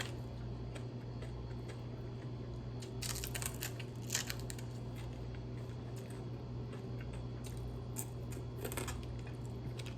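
Close-up chewing of crispy re-fried chicken, with scattered crunches and crackles in small clusters about three, four and eight seconds in. A steady low hum runs underneath.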